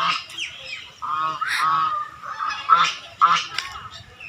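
Geese honking repeatedly: a run of short calls, about half a dozen, some overlapping.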